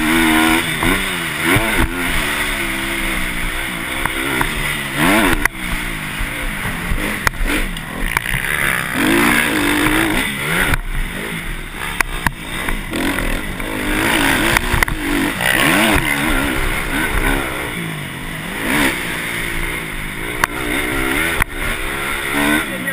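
Motocross dirt bikes running on a track, their engines revving up and down over and over, the pitch rising and falling with overlapping engines.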